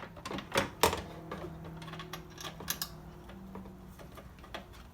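Metal clicks and knocks as a power window regulator is worked into place and its bolts lined up inside a car door, with a few sharp taps, the loudest in the first second.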